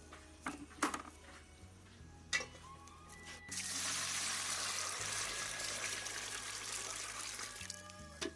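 A few knocks, then water pouring or running steadily for about four and a half seconds before it stops, over quiet background music.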